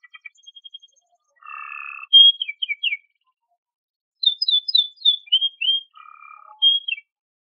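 Domestic canary singing: a quick rattling trill, a buzzy note, then two runs of loud, repeated down-slurred whistled notes.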